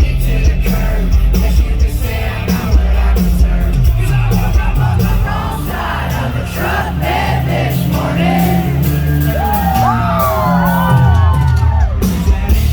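Live country-rock band playing loudly with heavy bass, while the crowd shouts, whoops and sings along. Near the end a few high sliding notes fall in pitch.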